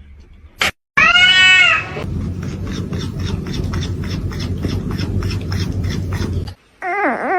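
A cat's loud meow about a second in. It is followed by a few seconds of rough, pulsing noise, and then a wavering, warbling yowl near the end.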